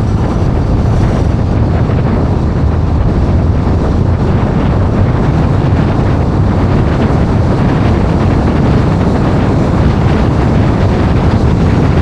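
Steady loud rush of road and wind noise from a car driving at speed, heaviest in the low end with a faint engine hum underneath.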